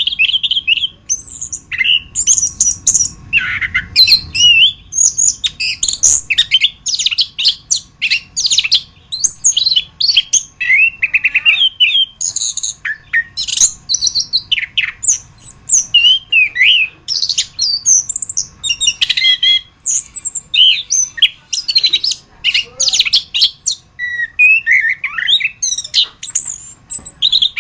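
Orange-headed thrush singing without pause: a fast, varied song of short whistled glides, trills and chattering phrases, one running straight into the next.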